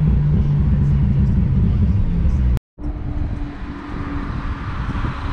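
Ford FPV F6 Typhoon's turbocharged Barra inline-six heard from inside the cabin on a steady cruise, a deep even drone. After an abrupt cut a little over halfway through, the same engine runs at idle with the bonnet open, quieter and steady.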